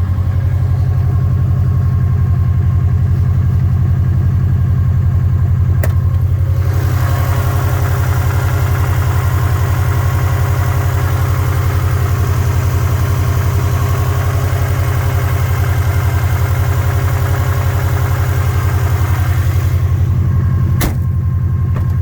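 2003 Subaru WRX's turbocharged 2.0-litre flat-four idling steadily at the exhaust, still warming up after a cold start, with an even low pulsing note. A broad hiss joins about six seconds in and fades out near the end, with a single click near the start of it and another near the end.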